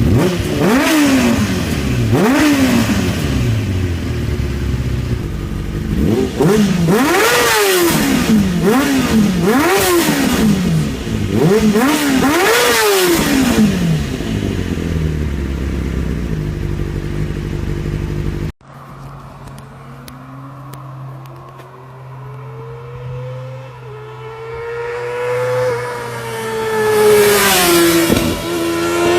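1999 Kawasaki ZXR400 inline-four through a full Micron exhaust with a shortened end can, revved in a series of sharp blips over a steady idle. After a sudden cut, the bike is heard accelerating with its pitch rising, then growing loud and dropping in pitch as it passes close by near the end.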